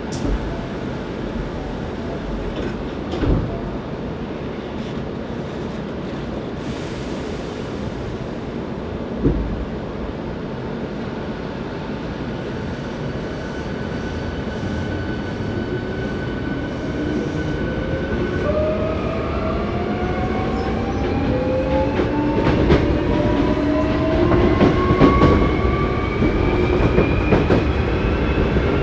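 Onboard running sound of a Hankyu 7300-series electric train car, which is noted for its unusual running sound. A steady rumble from the wheels on the rails, with two knocks in the first ten seconds. From just past halfway the traction motor whine climbs in pitch, several tones rising together, as the train accelerates and grows louder.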